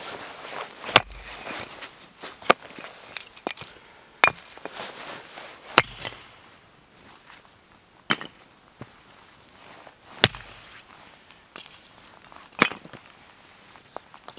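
Firewood being chopped or split by hand: seven sharp strikes, about one every two seconds.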